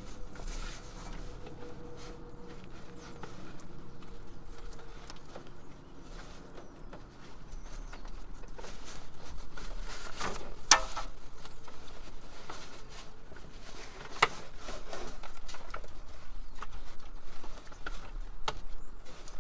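Hand tools and metal parts clicking and knocking at irregular intervals during hands-on car repair work, with a sharper click about ten seconds in and a few more later on.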